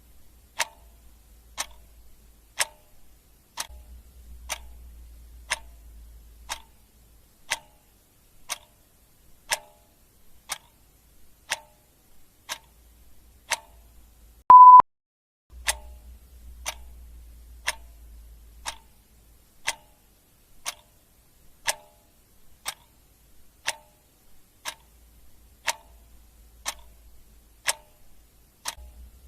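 Clock ticking sound effect, about one tick a second. About halfway through, a single short, loud beep sounds.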